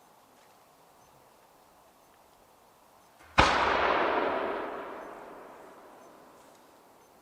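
One large aerial firework shell, a 30 cm shakudama, bursting about three and a half seconds in: a single sharp boom followed by a long rolling echo that fades away over about three seconds.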